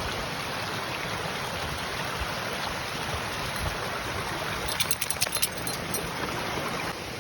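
Rain-swollen creek water rushing steadily. A short cluster of sharp clicks comes about five seconds in.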